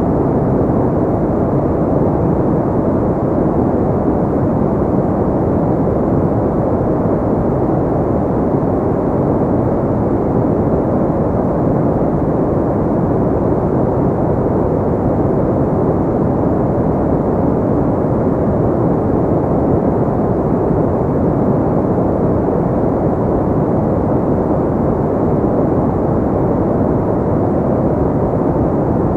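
Steady sleep-aid noise, a deep, even rushing hiss with little treble, like brown noise, that does not change.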